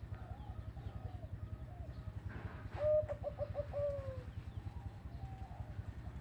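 Zebra doves cooing. Faint coos run throughout, and about three seconds in comes one louder coo: a quick run of short staccato notes ending in a long falling note. A steady low pulsing hum runs underneath.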